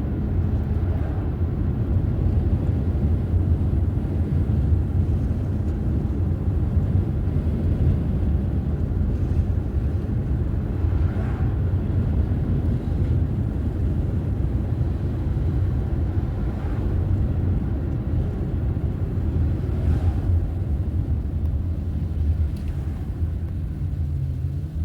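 A car driving at steady speed: a continuous low rumble of tyre and engine noise.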